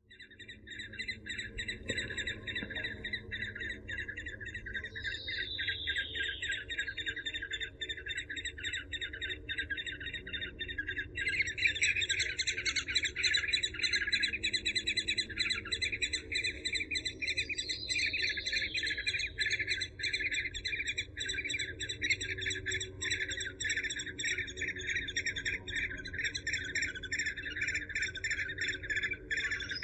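Eurasian hobby (Falco subbuteo) calling in a long, fast series of sharp repeated notes, louder from about eleven seconds in.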